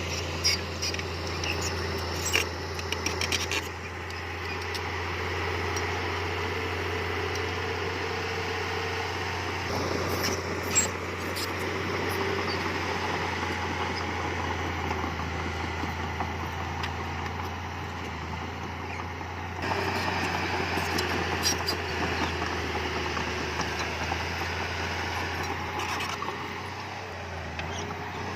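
Diesel engine of heavy earthmoving machinery running steadily with a low drone, with scattered clanks and knocks, the sharpest about eleven seconds in, and the engine noise growing louder about twenty seconds in.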